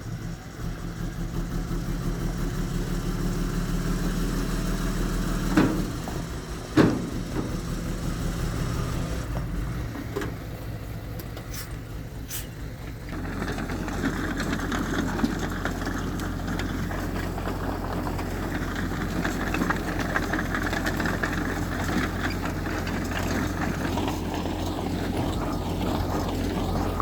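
Heavy diesel engine of earthmoving machinery running steadily, with two sharp loud knocks about five and a half and seven seconds in. About halfway through the engine becomes louder and rougher, as if under load, and stays that way.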